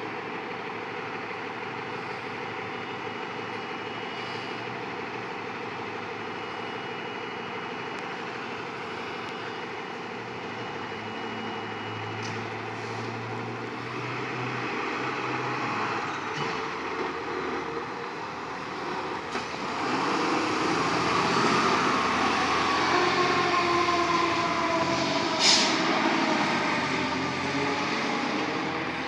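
Fire apparatus passing on an emergency response: engine and road noise that grows louder as the trucks approach. About two-thirds of the way in, a siren sounds, its pitch sliding slowly down.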